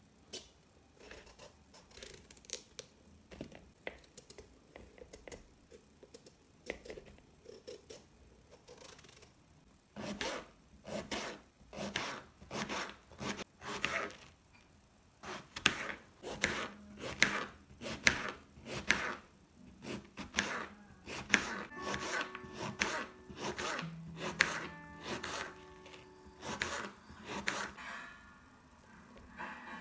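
A kitchen knife chopping food on a cutting board: scattered light cuts at first, then about a third of the way in a steady run of firmer chops, roughly one or two a second.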